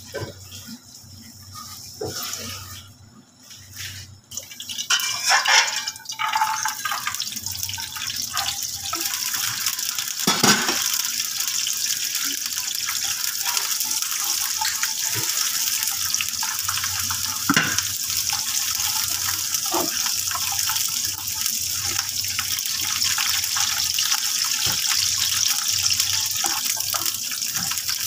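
Blanched almonds sizzling in hot oil in a small frying pan, with a spatula now and then knocking and scraping against the pan. The sizzle starts a few seconds in as the almonds go into the oil, then runs steadily.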